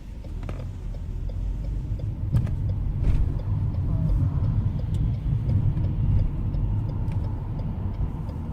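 Car driving: a low engine and road rumble, heard from inside the cabin, that grows louder over the first few seconds and then stays steady, with a few faint clicks.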